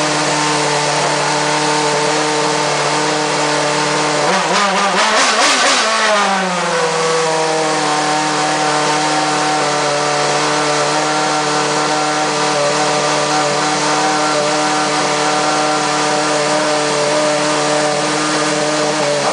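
Red Bull RB7 Formula 1 car's Renault 2.4-litre V8 idling steadily. About four seconds in it is blipped once, rising in pitch and falling back to idle within about three seconds.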